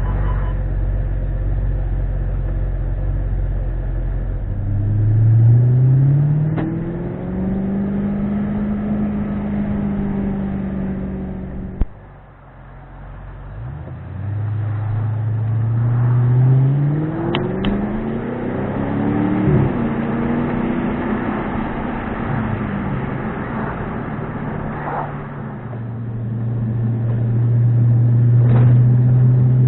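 Audi RS5's 4.2-litre V8 through a JH Motorsports valved cat-back exhaust, heard from inside the cabin under acceleration. The engine note climbs in pitch and levels off, then drops away briefly after a sharp click midway. It climbs again through a gear change and settles into a steady, louder note near the end.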